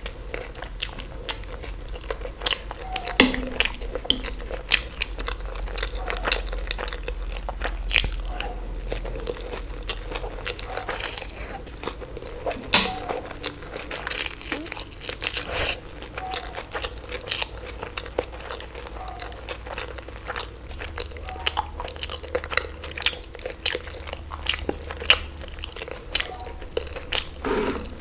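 Close-miked eating: bites, crunches and chewing, heard as many irregular sharp clicks.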